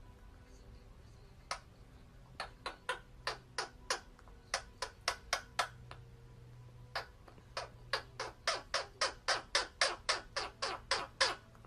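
Parrot giving a rapid series of short, harsh squawks, about three a second, in two runs with a brief pause between them.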